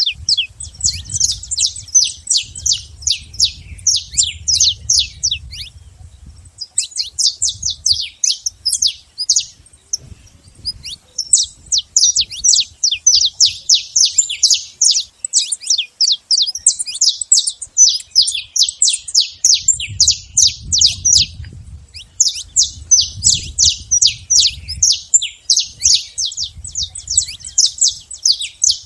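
Saffron finch (canário-da-terra) singing long phrases of rapid, high chirping notes, with short pauses between phrases. A faint low rumble comes and goes underneath.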